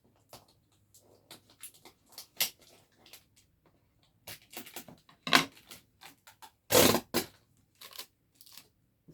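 Scissors scraping and snipping at packing tape on a cardboard box, the tape crackling as it is worked loose, in a run of short scrapes and clicks. Two louder tearing bursts come past the middle, the second lasting about half a second.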